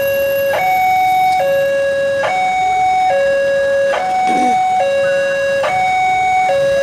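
Railway level-crossing warning alarm sounding a steady two-tone signal, alternating a higher and a lower tone about every second: the crossing's signal that a train is approaching and the barrier gates are down.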